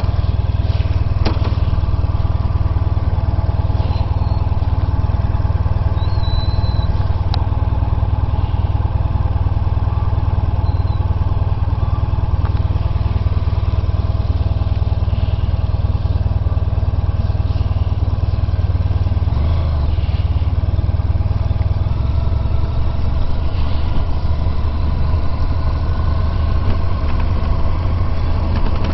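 Honda VFR1200X Crosstourer's V4 engine running steadily as the motorcycle is ridden, its note shifting about two-thirds of the way through.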